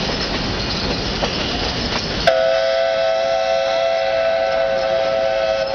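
Passenger cars of a passing train rumbling on the rails. About two seconds in, the train sounds one long, steady blast of several notes together, which holds for about three and a half seconds and then cuts off.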